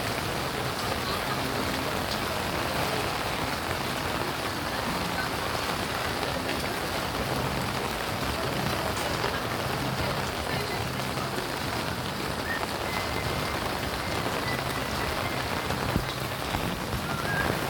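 Steady rain falling, with one sharp tap about sixteen seconds in.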